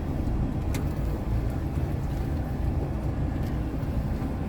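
Truck cab interior while driving: a steady low drone of the engine and road rumble from the tyres on worn asphalt, with a couple of brief sharp clicks, about a second in and again past three seconds.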